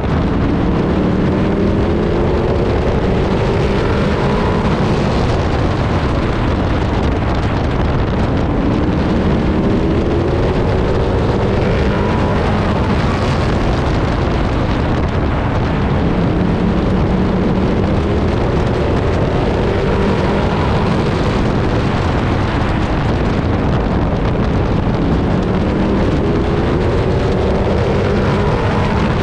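Race truck's engine heard from the onboard camera at racing speed, its pitch climbing and dropping back about every four to five seconds as it accelerates and lifts, over constant wind noise on the microphone.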